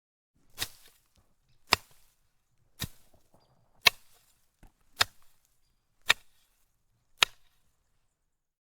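Seven sharp knocks in an even rhythm, about one a second, each one short and crisp.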